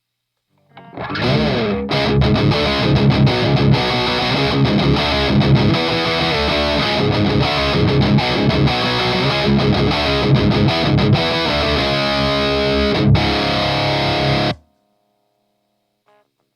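High-gain distorted electric guitar riffing with palm-muted chugs through an EVH Iconic amp into a close-miked Arachnid cabinet, the amp's own gain with no pedal engaged. It starts about a second in and stops abruptly near the end.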